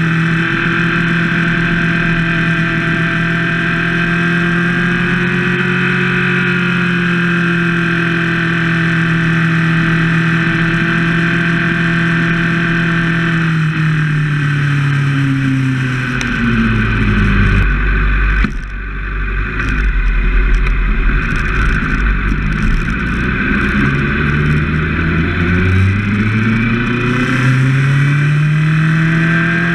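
Motorcycle engine running under way at a steady pitch, then dropping as the throttle is rolled off about halfway through, and climbing again as it accelerates near the end. A low wind rumble on the microphone runs through the slower middle stretch.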